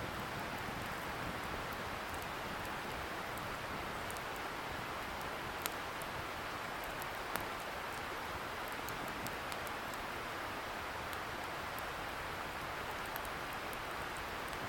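Wood bonfire crackling, with scattered sharp pops, two louder ones near the middle, over the steady hiss of a distant river.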